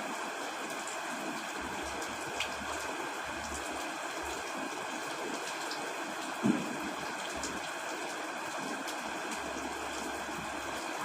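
Steady rain falling, an even hiss, with a single dull knock about six and a half seconds in.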